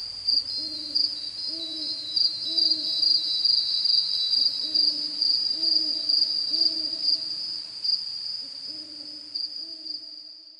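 Night-time creature sounds: a steady high pulsing trill, with runs of short low hooting notes repeated about twice a second, fading out at the very end.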